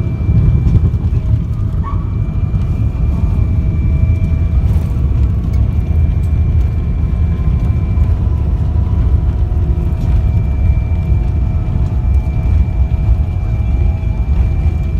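Cabin noise of a Boeing 777 on approach heard from inside: a loud, steady low rumble of airflow and engines, with faint steady whining tones above it.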